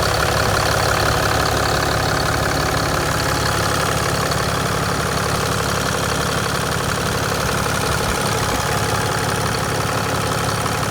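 2020 Ram 4500 heavy-duty truck's engine idling steadily.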